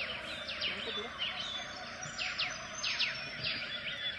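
Several wild birds calling, a rapid overlapping series of whistled calls that each sweep down in pitch, over a steady background drone.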